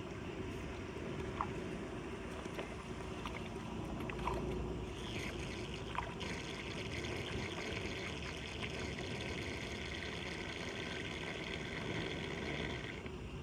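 Floodwater pouring and trickling into a street storm drain. The flow grows stronger about five seconds in and eases off near the end, with a few light knocks along the way.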